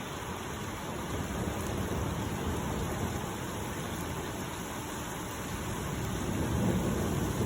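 Steady hiss of rain during a thunderstorm, with a low rumble of thunder starting to build near the end.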